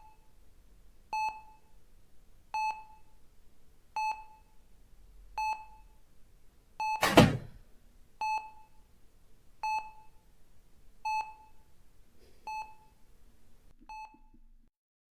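Hospital patient monitor beeping: a short, single-pitched beep repeating steadily about every second and a half, roughly eleven times. Just past halfway a single short, louder sound stands out over the beeps.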